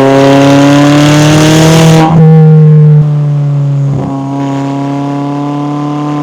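McLaren 570S twin-turbo V8 pulling under acceleration, its note climbing steadily, then dropping in pitch at an upshift about two seconds in. The engine then eases off, with a further break around four seconds in, before settling into a steady lower-pitched run.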